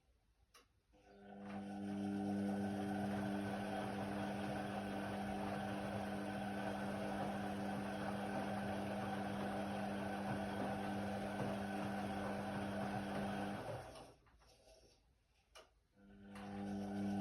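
Indesit WIDL 106 washer-dryer drum motor turning the drum with a steady hum. It stops for about two seconds, then starts again near the end, the usual turn-pause-turn of a tumble cycle.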